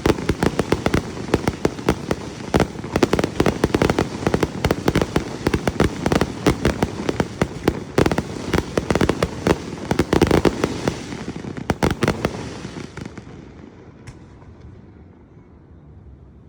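Aerial fireworks display going off in a rapid, dense barrage of bangs and crackles. It dies away about three-quarters of the way through.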